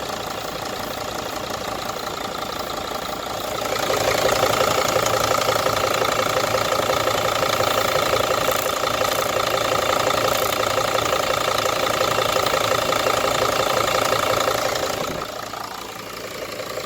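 Mercedes Sprinter T1N five-cylinder turbodiesel running, with the 'turbo noise' of an exhaust manifold leak at loose front manifold bolts, where escaping exhaust can make the gasket vibrate like a reed. The sound grows louder with a steady pair of tones about four seconds in and drops back near the end.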